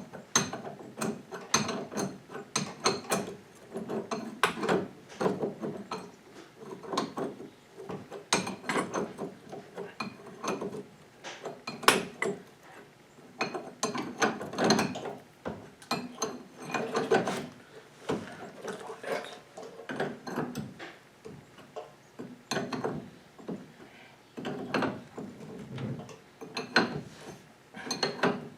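Hand tools working on the metal parts of a VW front beam: irregular bursts of ratchet-like clicking and clanking.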